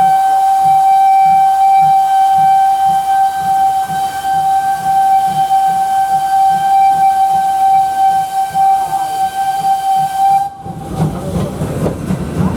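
Ty42 steam locomotive's whistle blowing one long, steady blast that cuts off about ten and a half seconds in, followed by the noise of the train running.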